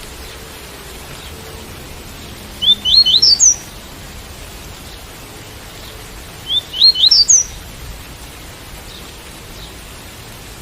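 Double-collared seedeater (coleiro) singing its tui-tui song: two short phrases of quick notes stepping upward in pitch, about four seconds apart, over a steady hiss of rain.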